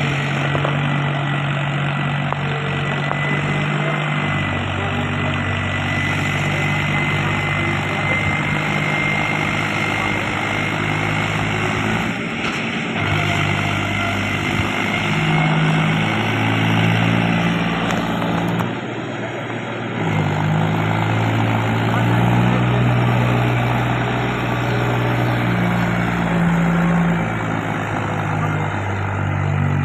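Mahindra 265 tractor's diesel engine running steadily, its pitch shifting up and down every second or two.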